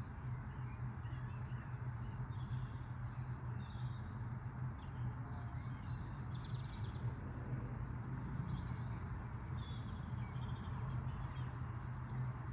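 A steady low hum throughout, with small birds chirping now and then at a higher pitch.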